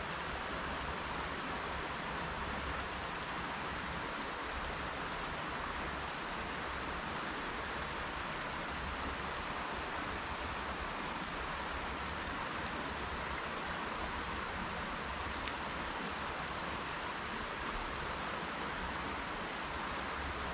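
Steady rush of flowing creek water, with faint short high chirps in the later half.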